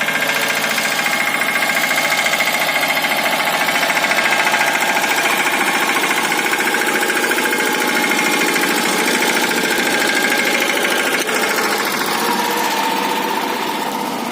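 Mahindra Yuvraj 215 NXT mini tractor's single-cylinder diesel engine running with a fast, even knocking beat, growing louder in the first second.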